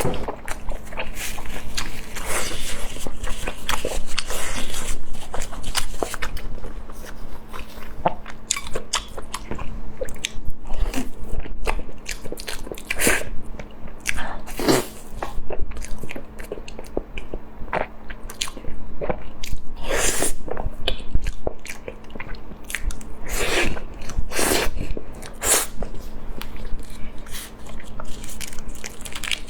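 Close-miked eating: a person biting into crunchy food and chewing, with irregular crisp crunches every second or so.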